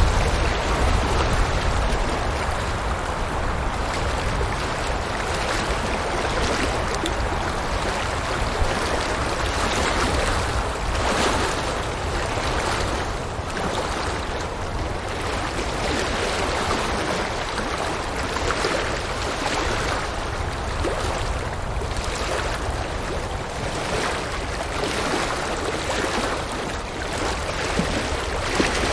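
River water flowing and splashing steadily over rocks in a continuous rush, with a little low rumble near the start.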